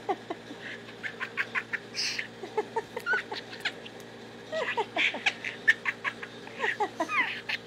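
Budgerigar chattering and warbling: a fast, uneven stream of short chirps, clicks and quick whistled glides, busiest about halfway through and again near the end.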